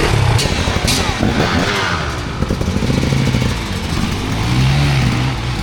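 Off-road motorcycle engine revving up and down as the bike is ridden, with two sharp knocks in the first second.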